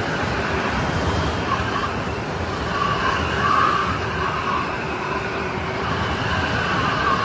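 Strong snowstorm wind blowing steadily, a dense rushing noise with a thin whistling howl over it that swells about three and a half seconds in.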